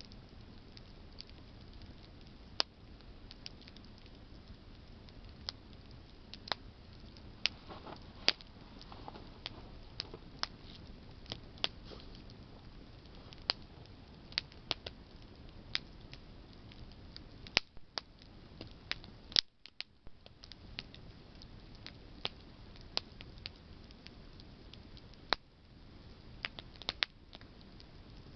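Wood campfire of burning branches crackling: irregular sharp pops, some much louder than others, over a steady low hiss of flame.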